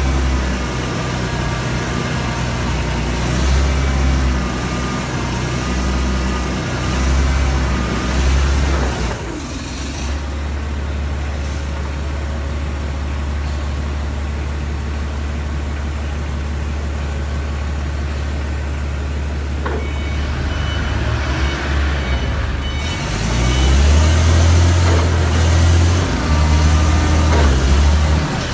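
Mitsubishi diesel engine of a 5-ton forklift running. It is louder and busier for the first nine seconds and again from about twenty-three seconds in, and settles to a steadier, quieter run in between.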